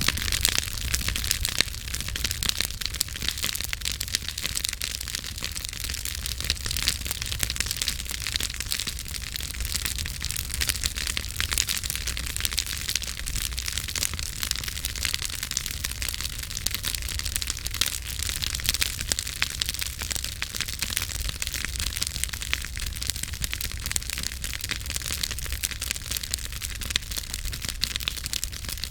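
Campfire burning, with dense irregular crackling and popping over a steady low rumble of the flames.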